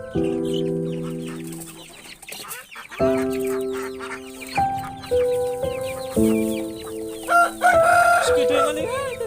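Chickens clucking, with a rooster-like call about three-quarters of the way in, over background music of held chords that change every second or two.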